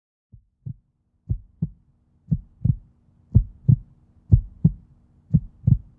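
Heartbeat sound effect: low lub-dub thumps in pairs, about one beat a second, growing louder over the first couple of seconds, with a faint steady hum underneath.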